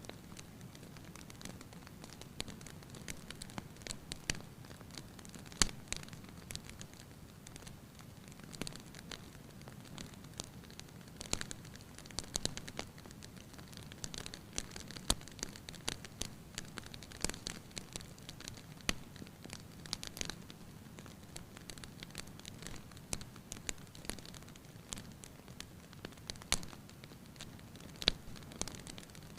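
Wood fire crackling in a fireplace: irregular sharp pops and snaps, some much louder than others, over a low steady background.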